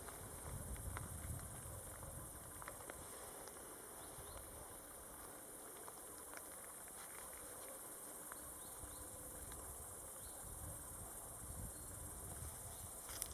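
Faint outdoor ambience: a steady high-pitched hiss of insects, with scattered small ticks and a low wind rumble on the microphone.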